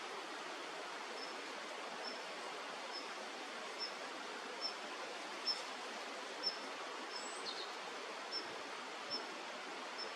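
A small bird giving short, high chirps over and over, roughly one a second, against a steady outdoor background hiss.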